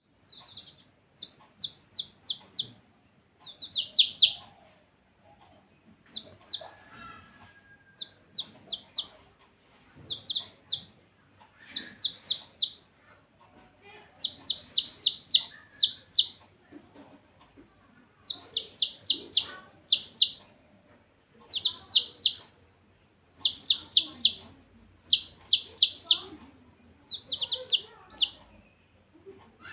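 Baby chicks peeping: quick runs of three to six short, high chirps, each sliding down in pitch. The runs repeat every second or two.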